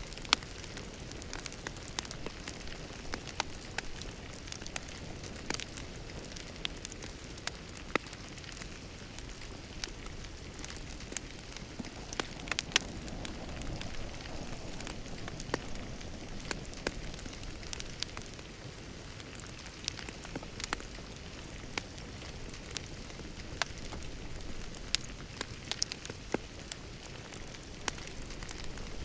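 Wood fire in a fireplace crackling steadily, with irregular sharp pops and snaps, a few of them loud.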